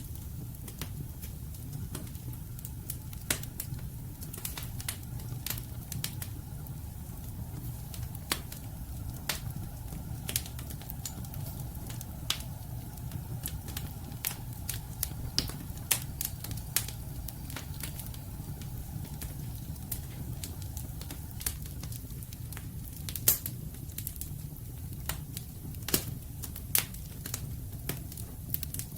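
Wood fire of burning logs crackling, with irregular sharp pops over a steady low rumble of flame; a few louder pops near the end.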